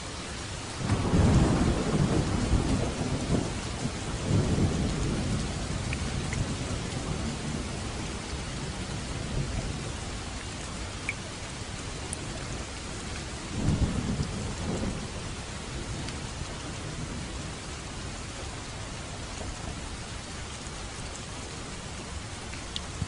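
Steady rain falling, with rolls of thunder: the loudest rumble comes about a second in, another follows a few seconds later, and a third comes past the middle.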